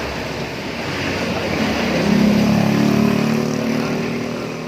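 A motor vehicle's engine passing by: it grows louder to a peak about halfway through, then fades.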